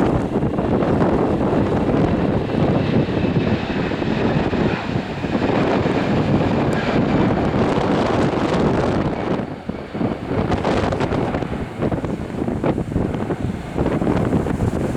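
Airbus A320 jet engines at takeoff power: a steady, loud roar, mixed with wind buffeting the microphone.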